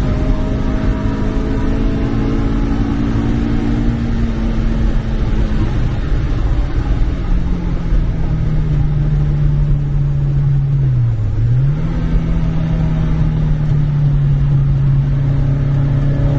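MG Midget race car's four-cylinder engine heard from inside the open cockpit at racing speed, loud over road and wind noise. The engine note eases down over the first several seconds, then holds steady, dipping briefly about eleven seconds in before picking straight back up.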